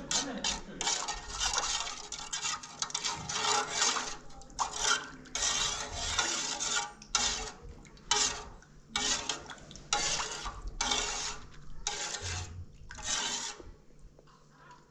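Metal pots and dishes scraping and clattering in a series of separate strokes, roughly one a second.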